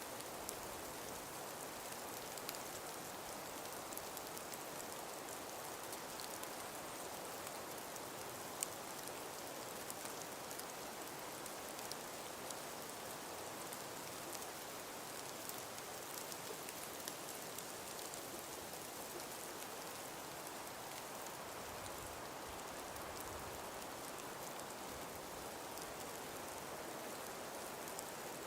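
Calm winter breeze through frost- and ice-covered forest trees: a steady hiss, with many small ticks scattered through it and one sharper tick about eight and a half seconds in.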